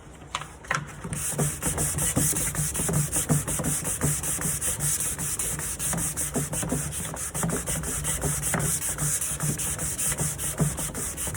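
Sandpaper rubbing over the wood of a nightstand: steady sanding strokes that start about a second in.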